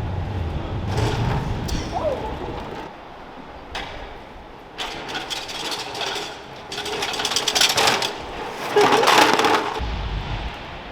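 A bicycle clattering and rattling through a run of hard knocks, about half a dozen separate bursts, the loudest near the end.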